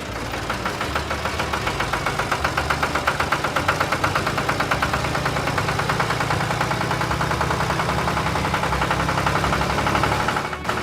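An engine running steadily with a fast, even chugging pulse, dipping briefly near the end.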